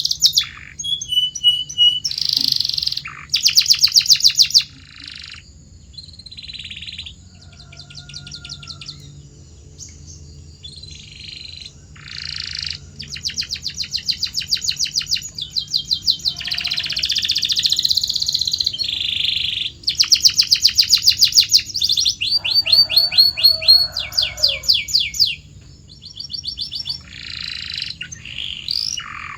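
Canary song: a string of rapid trills and rolls, each phrase a fast run of repeated notes lasting a second or two before switching to a new phrase at a different pitch.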